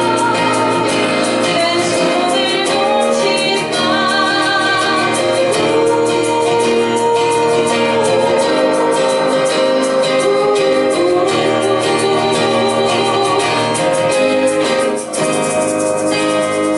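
A band playing a song live, with singing over instrumental accompaniment at a steady rhythm. The sound dips briefly near the end.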